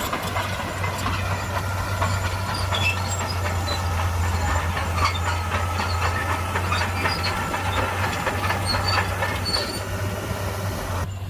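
Shantui crawler bulldozer working: steady diesel engine hum with the clatter of steel tracks and short, scattered squeaks from the track links and rollers.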